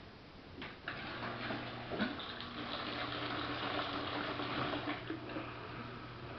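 Samsung VRT WF448 washing machine: water starts to rush about a second in and carries on steadily over a low electric hum.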